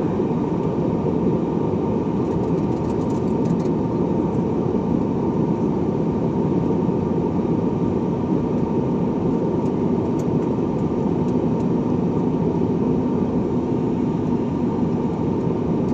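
Steady cabin noise of a jet airliner: an even rumble of the engines and air system with a thin, steady whine above it.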